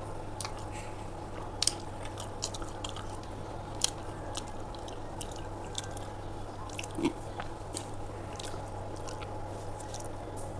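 A person chewing aloo paratha close to the microphone, with irregular wet smacks and clicks of the mouth, over a steady low hum.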